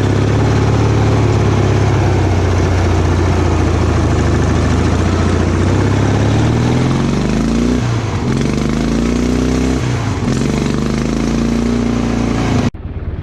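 Offroad lawn tractor's small engine running steadily, then revving up and down a few times in the second half. The sound cuts out abruptly near the end.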